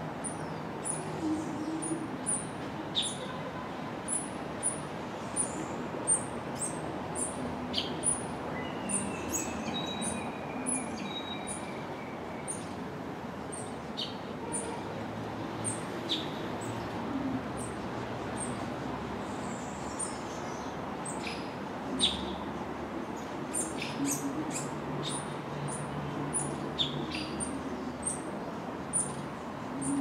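Small birds chirping with many short, high notes repeated throughout, plus a few sharper calls and one falling whistle about nine seconds in, over a steady low background rumble.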